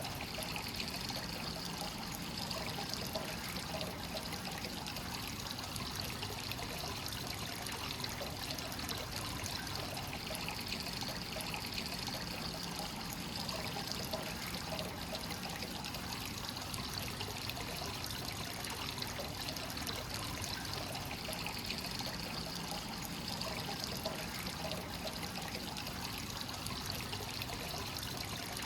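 Hot spring source water pouring steadily into a bath, a continuous trickle and splash that swells gently every several seconds.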